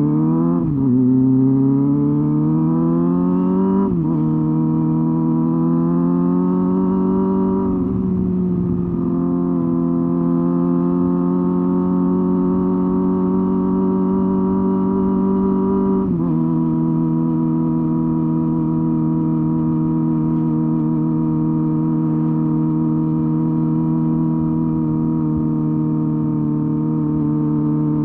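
Honda Hornet 250's four-cylinder engine and exhaust on the move, pulling through the gears: the pitch climbs and drops sharply at each upshift, about a second in, again at about four seconds and near eight seconds. It then holds a steady cruise, with one more drop in pitch about sixteen seconds in.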